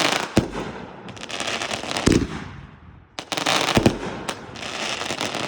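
Consumer fireworks going off in a rapid string: dense crackling and hissing bursts, punctuated by three heavy booms spaced less than two seconds apart.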